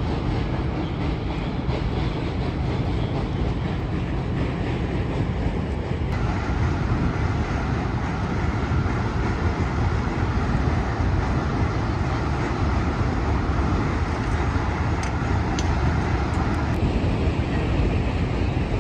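A train rumbling steadily, with a dense low noise that shifts abruptly in tone about six seconds in and again near the end.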